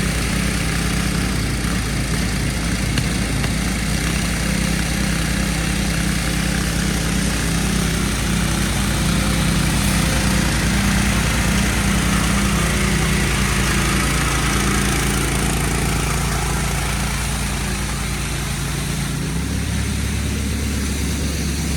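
Small gas engine of a pressure washer running steadily under the hiss of the water spray. About nineteen seconds in, the engine's note changes.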